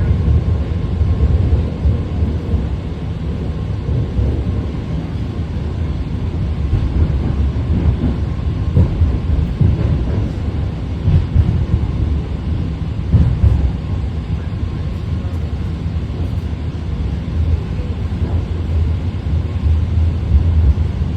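A BART Fleet of the Future train running at speed between stations, heard from inside the car: a loud, steady low rumble of wheels on rail and running gear.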